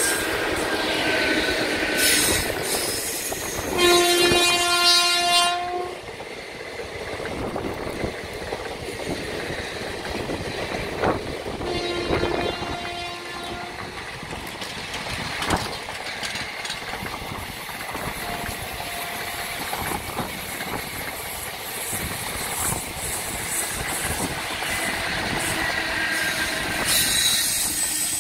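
A passenger train hauled by a WCAM3 electric locomotive passes close by, with the steady rumble and clickety-clack of its coaches rolling past. A train horn sounds loudly for about a second and a half, about four seconds in, and a shorter, fainter horn blast comes about twelve seconds in.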